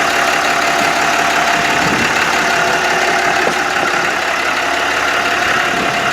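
Bucket truck engine idling steadily, with the power take-off engaged to drive the aerial boom's hydraulics.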